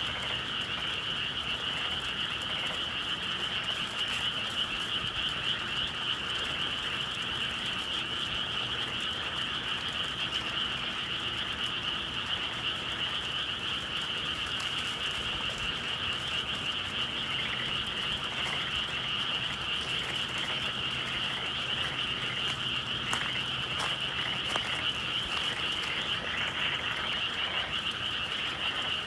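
A dense chorus of many frogs calling at once, a continuous high-pitched massed trilling that holds steady throughout.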